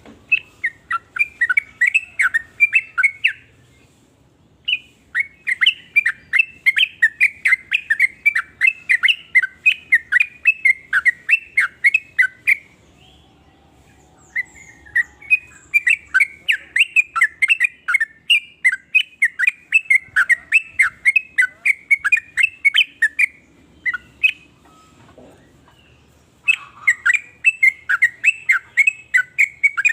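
Yellow-vented bulbul (trucukan) calling: long runs of quick, repeated chattering notes, about four or five a second, broken by short pauses of a second or two.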